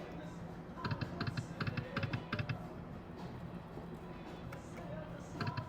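Poker machine reels spinning and stopping: a quick run of clicking reel sounds with short beeps about a second in, starting again near the end with the next spin, over a steady low hum.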